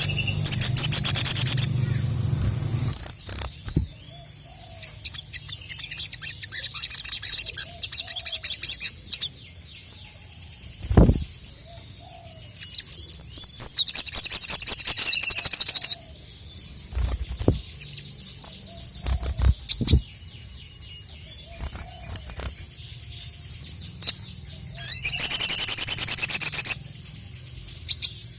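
Sogon (little spiderhunter) singing in loud bursts of fast, high-pitched chattering notes, four bursts of a few seconds each, with a few short low thumps between them.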